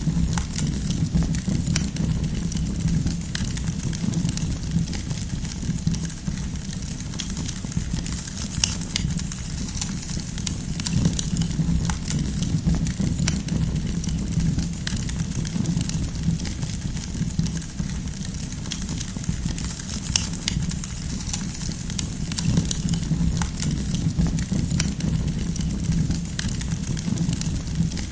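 Campfire of burning firewood crackling, with frequent small irregular pops and snaps over a steady low rumble of the flames.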